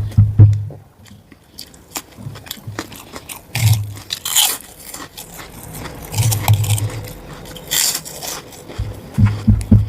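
Close-up eating sounds: a person chewing mouthfuls of rice and curry, with short crunches and wet mouth noises at irregular intervals, the loudest about four and eight seconds in.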